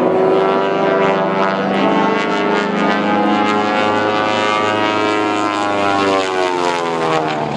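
Twin radial engines and propellers of a Beech 18 at high power in a low aerobatic pass, the engine pitch sliding down as the airplane goes by.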